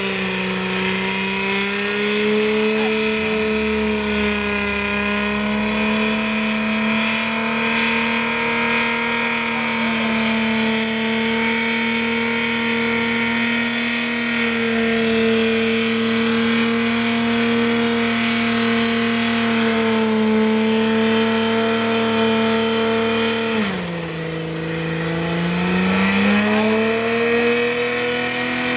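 Jaguar XF police car's engine held at high, steady revs during a burnout. Near the end the revs drop sharply, then climb back up.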